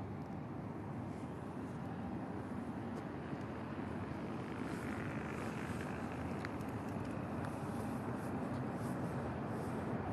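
Steady low rumble of outdoor background noise, growing slowly louder, with faint short high ticks in the second half.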